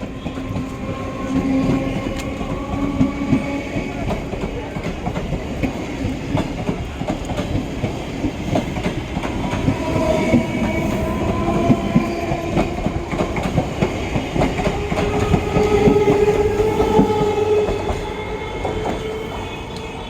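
Electric multiple unit (EMU) local train running on the track, its wheels clattering over the rail joints, with long whining tones held for several seconds at a time.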